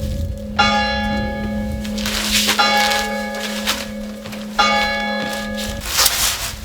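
A large bell tolling, three strikes about two seconds apart, each ringing on over a steady low hum, with a couple of dull knocks in between.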